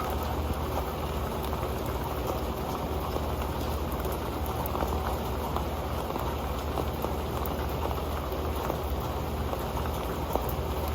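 Rain falling on an old pan: a steady, dense patter of drops.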